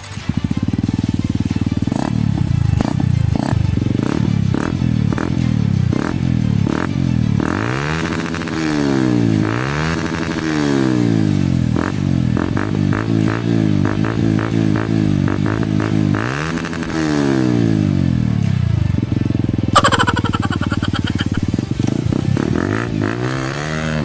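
Yamaha R15's single-cylinder four-stroke engine being ridden hard off-road, revving up and dropping back again and again as it works through the gears. A string of sharp knocks and clatter comes in the first several seconds.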